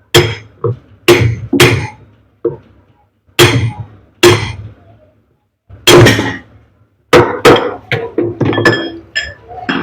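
Hammer blows on metal, about a dozen irregular strikes, each with a short ringing note, knocking the gearbox of a top-load washing machine backwards to free it from its mounting.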